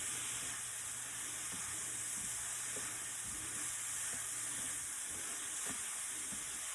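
Shrimp sizzling in a hot pan with small clicks of a utensil as the shrimp and paprika seasoning are mixed.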